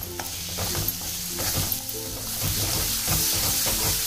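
Thick masala paste with spice powders sizzling in hot oil in a metal kadhai, with a spatula stirring it and scraping the pan at irregular intervals.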